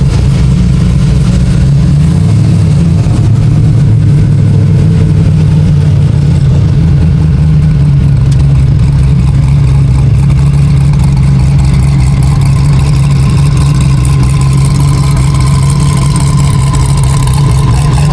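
Hennessy Venom F5's twin-turbo V8 idling steadily and loudly close by.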